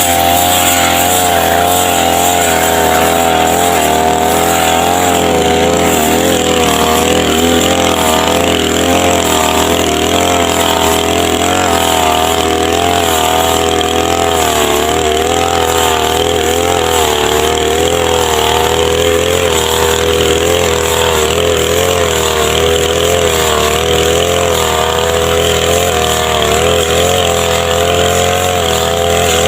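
Petrol brush cutter running steadily at high speed while cutting grass, its engine drone wavering slightly in pitch.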